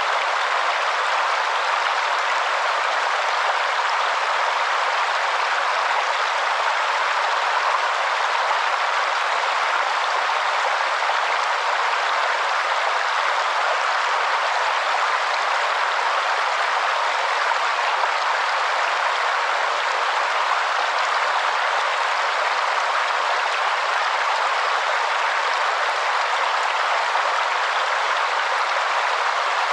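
Waterfall rushing in a steady, even hiss with no deep rumble.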